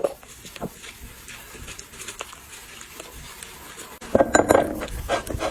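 Dogs eating rice from a bowl: scattered small clicks and clinks of the bowl, then a louder, noisier burst of eating about four seconds in.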